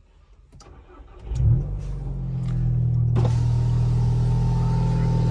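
Volkswagen Jetta 2.0 TSI's turbocharged four-cylinder engine starting about a second and a half in, flaring up in revs and then settling into a steady idle. The exhaust has a downpipe and a straight pipe in place of the intermediate muffler, with only the stock rear muffler left.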